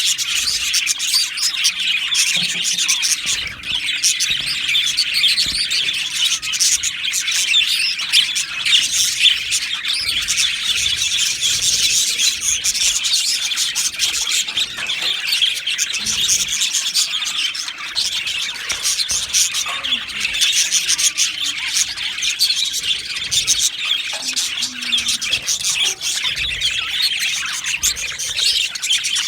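Budgerigars chirping and chattering without pause, many short overlapping high chirps and warbles.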